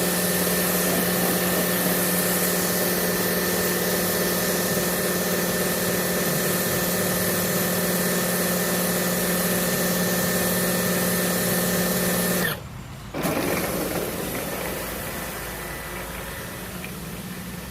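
Kärcher lithium-ion portable pressure washer's pump motor running with a steady hum, then cutting out suddenly about three-quarters of the way through. A short burst of noise follows and a fainter hiss fades out near the end.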